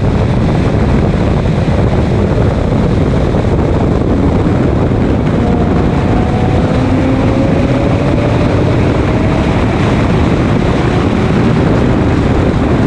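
Race car running on track, a loud steady rush of wind and road noise with the engine underneath; faint engine tones glide in pitch from about halfway in.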